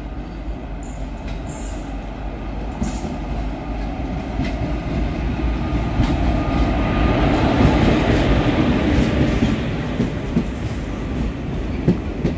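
Passenger train running on the track, a steady rumble of wheels on rail that swells to its loudest about eight seconds in and then eases a little, with a few sharp clacks near the end.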